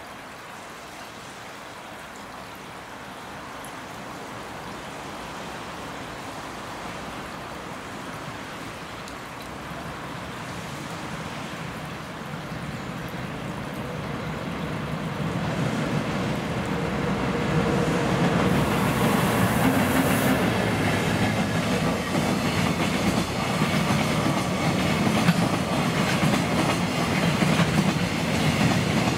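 An EF210 electric-locomotive-hauled container freight train approaches and passes close by, growing steadily louder. In the last third the wagons' wheels clatter over the rail joints as the container cars roll past. A brief high hiss comes partway through.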